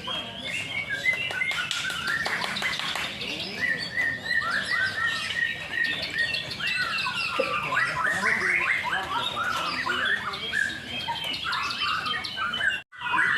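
Several white-rumped shamas singing at once in a contest line-up: a dense, overlapping stream of rapid whistled phrases and slurred notes. The sound breaks off for an instant near the end.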